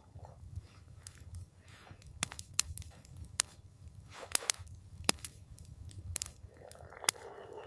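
Campfire crackling, with irregular sharp pops and snaps of burning wood over a low, steady rumble of the fire. A soft rushing swell rises near the end.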